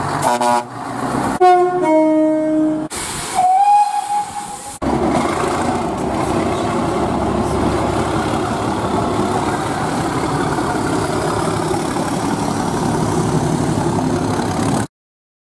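A few short horn blasts, each sounding two or more notes together, the last one rising in pitch, then about ten seconds of steady diesel locomotive engine and rail noise as a locomotive passes close, cutting off suddenly near the end.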